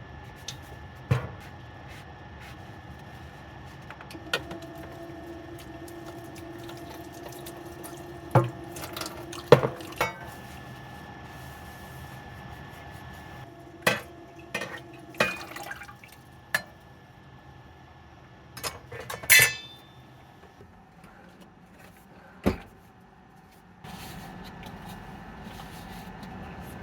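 Scattered clinks and knocks of chopsticks and utensils against a pot or bowl, with small liquid sounds, as ramen is eaten. A faint steady hum runs underneath.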